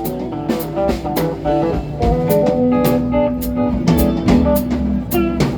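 Live band playing an instrumental passage of a blues-rock tune, with guitar, bass and drums keeping a steady beat on the cymbals.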